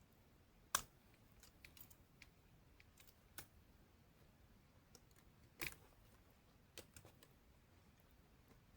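Near silence broken by scattered short, sharp clicks and snaps, the loudest under a second in and another about two-thirds of the way through.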